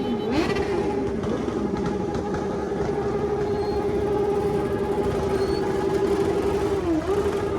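Motorcycle engine held at high revs at a steady pitch, dipping briefly about seven seconds in before picking back up. Other engines rise and fall in pitch behind it near the start.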